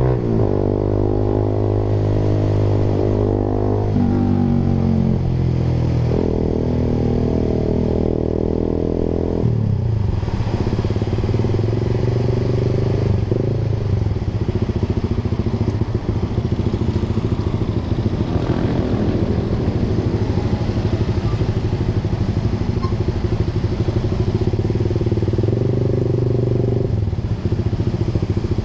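Honda Sonic 150R's single-cylinder four-stroke engine through a Proliner TR1R short aftermarket exhaust, running under way. The engine note changes pitch in steps over the first ten seconds, then settles to a lower, steady rumble.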